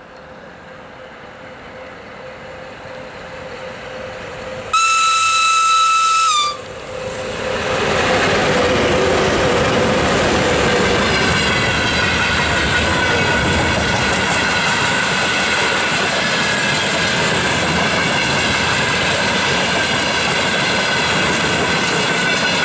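VL80S electric locomotive hauling a freight train, approaching and growing louder, then sounding one high-pitched horn blast of about two seconds, a little under five seconds in, whose pitch dips as it cuts off. The train then rolls past close by: loud, steady wheel-on-rail noise from the passing wagons, with a steady high ringing tone.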